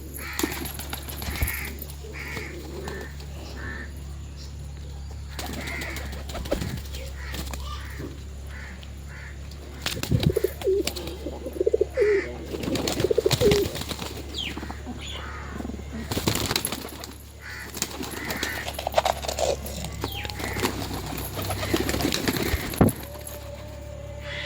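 Domestic pigeons cooing repeatedly, with scattered short knocks over a steady low hum.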